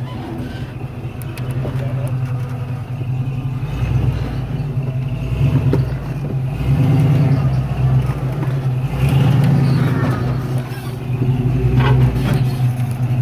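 Off-road truck engine working at crawling speed, its throttle rising and falling in several swells as it is driven over rocks.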